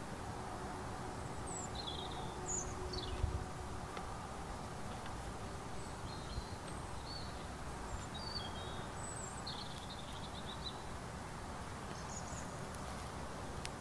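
Small birds chirping in short, scattered calls over a steady low background rush, with one soft low thump about three seconds in.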